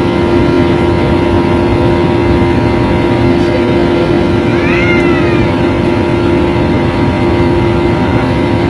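Jet airliner engine noise heard inside the passenger cabin: a loud, steady roar with a constant droning hum. A brief high squeak comes through about five seconds in.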